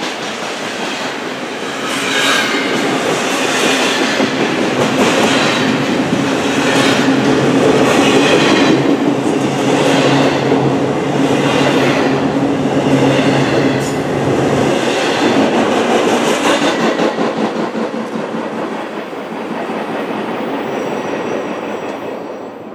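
Union Pacific double-stack intermodal freight train rolling past: a steady rumble of steel wheels on rail with a clickety-clack of wheels over rail joints about once a second. The sound fades away near the end as the last cars pass.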